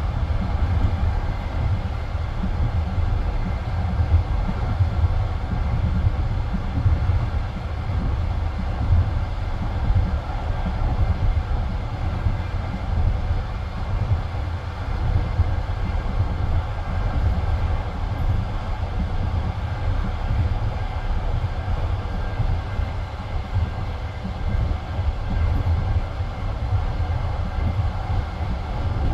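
Passenger train carriage rolling along the track at speed, heard from inside the car: a steady, low rumble of wheels on rails.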